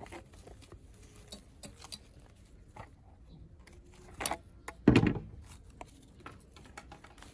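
Hand handling noise while assembling a coconut-shell pot: scattered small clicks and rustles, with a sharper click a little past four seconds and a dull knock about five seconds in.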